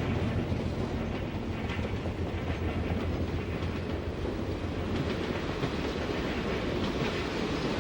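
Diesel-hauled freight train rolling by: a steady low rumble of wheels on rail.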